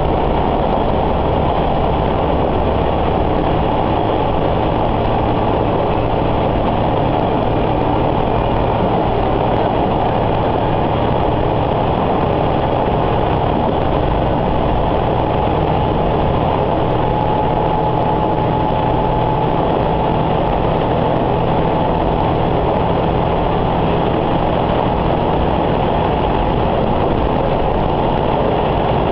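Sanriku Railway diesel railcar heard from inside the car: a steady, continuous drone of the diesel engine mixed with running noise.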